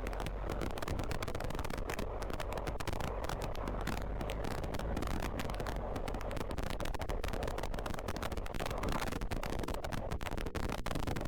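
BMW R1250GS Adventure's boxer-twin engine running while the bike is ridden, mixed with steady crackling wind buffeting on the microphone.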